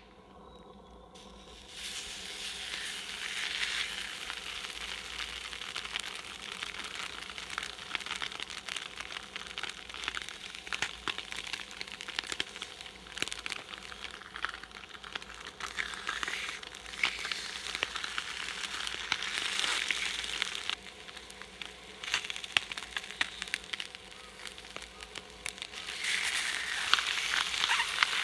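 Butterflied Pacific saury sizzling on a hot steel griddle over a campfire, with many small crackles and pops. The sizzle starts about two seconds in, eases off for a few seconds past the middle and picks up again near the end.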